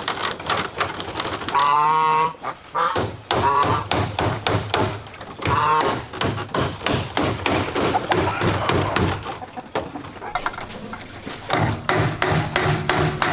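Rapid knocking and tapping, with two wavering animal calls about two seconds and six seconds in.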